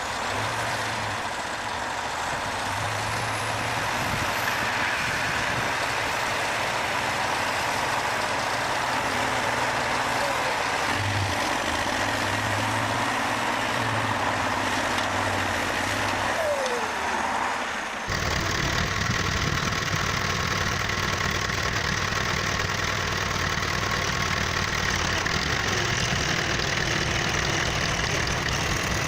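Tractor engines running hard in mud, a steady loud mechanical noise that switches abruptly to a different engine sound about two-thirds of the way through.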